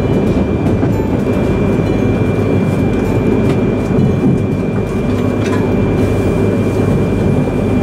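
Steady in-car running noise of an E3 series mini-shinkansen train nearing its terminal stop: a dense low rumble from the wheels and running gear, with a thin steady high whine and a few faint clicks on top.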